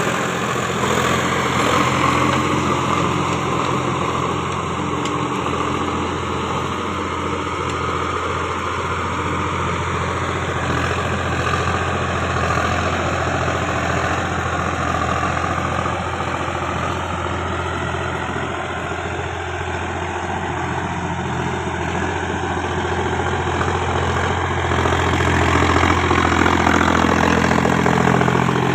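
A motor running steadily with a low, even hum and a rough mechanical rattle over it, growing slightly louder in the last few seconds.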